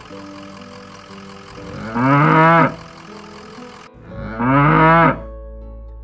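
A cow mooing twice, two calls under a second long about two and a half seconds apart, over a much quieter steady background.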